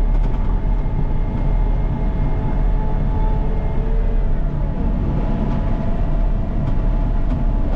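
Caterpillar 926M wheel loader's diesel engine running steadily: a low drone with fainter whining tones above it that shift about halfway through.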